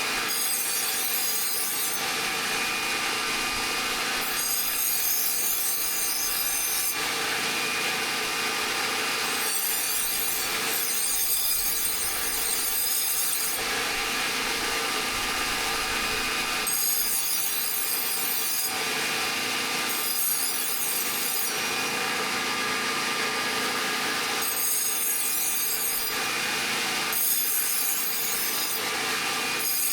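An old steel saw blade being shaped into a knife: a continuous rasping scrape of metal being abraded, whose hiss brightens and dulls every second or few as the pressure and contact shift.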